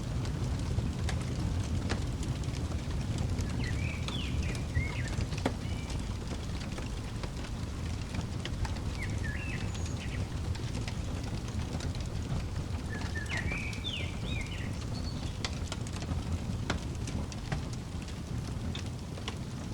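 Wood fire crackling in a fireplace: many sharp pops and snaps over a steady low rumble. A bird chirps in three short bursts of quick, gliding notes.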